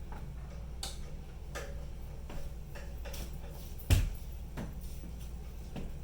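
Irregular light clicks and taps, with one louder knock about four seconds in, over a steady low hum.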